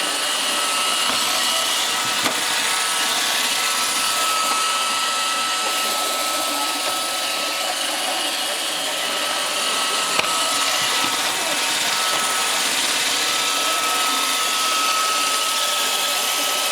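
iRobot Roomba 625 robot vacuum running: a steady motor and brush noise with a high, even whine, and two brief clicks, about two seconds in and near ten seconds in.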